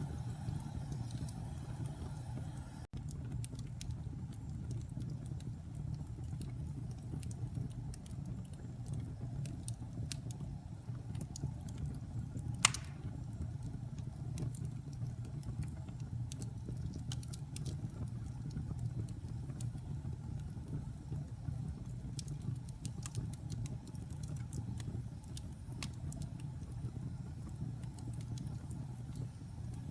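Wood fire burning in a fireplace: a steady low rumble with scattered crackles and one loud pop about halfway through.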